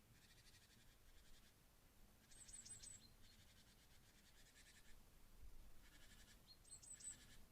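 Faint songbird song: a short phrase of quick high notes and a trill, heard three times about every four seconds.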